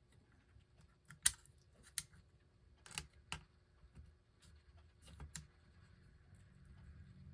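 Small sharp clicks and taps of metal parts being fitted as the idler wheel of an RCA Victor 45-J record changer is seated: about six separate clicks, the loudest about a second in.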